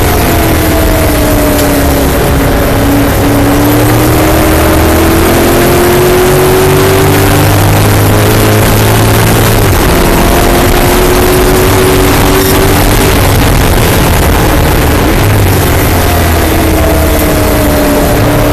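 A 1960s TVR Griffith's Ford V8 racing, heard loud inside the open cockpit under heavy wind and road noise. The revs drop under braking at the start and climb on full throttle. They break at a gear change about ten seconds in, climb again, and fall under braking near the end.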